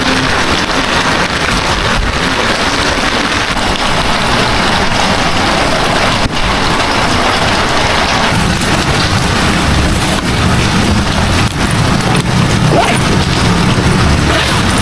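Heavy rain falling steadily as a loud, even hiss, with a low rumble building in the second half.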